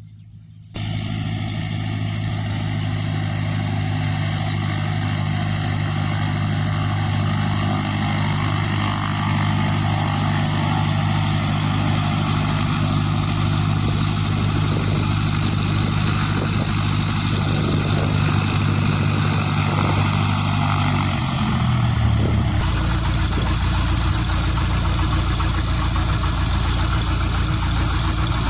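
Two-seat light aircraft's piston engine and propeller running steadily under a rushing wind noise. About 21 seconds in, the engine note slides down to a lower pitch and holds there.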